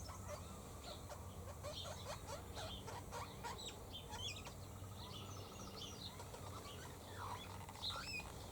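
Wild birds calling: a faint chorus of many short chirps and quick whistled notes, overlapping throughout.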